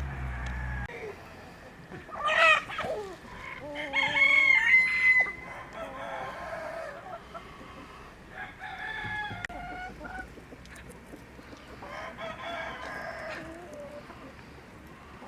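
Rooster crowing loudly about two to five seconds in, with chickens clucking more softly through the rest.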